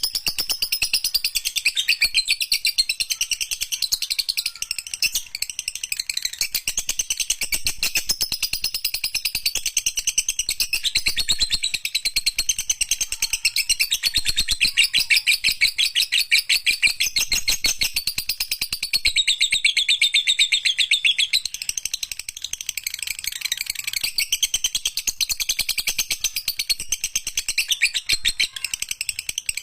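Lovebird singing a long, unbroken chattering trill of very rapid high notes: the long 'ngekek' song prized in Indonesian lovebird keeping.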